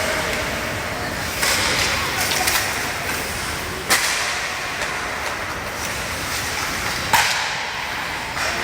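Hockey game sounds: a steady wash of rink noise broken by two sharp knocks, about four seconds and seven seconds in, of a stick or puck striking.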